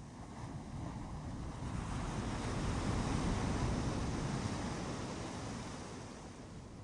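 Ocean wave breaking and washing up the beach: a rushing hiss that swells for a couple of seconds, peaks, then slowly fades.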